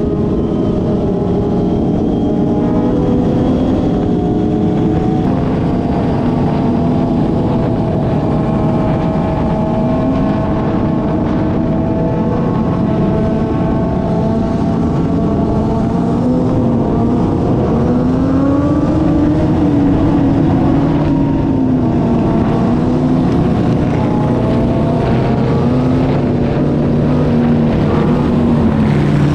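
A pack of motorcycle engines running together, several riders revving up and down so that engine pitches rise and fall over a steady low rumble.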